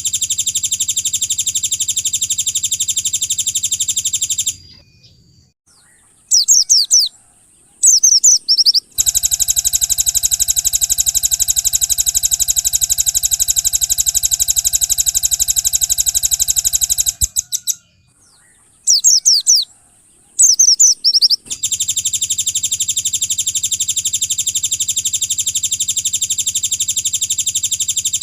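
Recorded songbird song: long, very fast buzzing trills that start and stop abruptly, broken twice by short runs of quick falling chirps.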